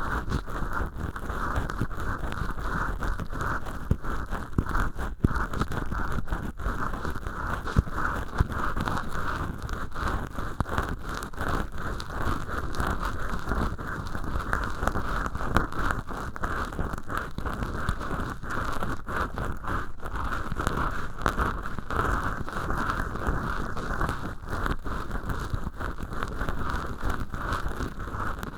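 Cotton swabs rubbing and scratching inside ear holes made of acrylic dish-scrubber sponge, worked in both ears at once: a steady, dense crackly rustle full of small scratches, dying down at the very end.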